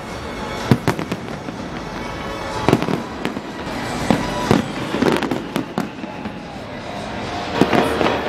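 Large aerial fireworks display bursting overhead: irregular sharp bangs, several coming in quick pairs or clusters, over a continuous din.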